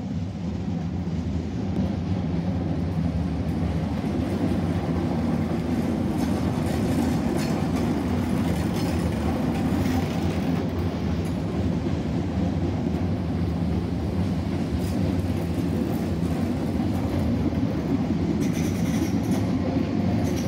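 Greater Anglia electric multiple-unit train running past, its wheels on the track making a steady low rumble. The rumble builds over the first couple of seconds and then holds level, with a few faint clicks near the end.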